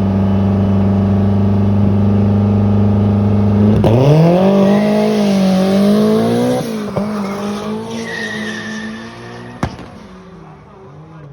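A drag car's engine is held at steady high revs on the start line. About four seconds in it launches: the revs dip, then climb again through a gear change, and the sound fades as the car pulls away down the strip, with tyre noise at the launch. A single sharp crack comes near the end.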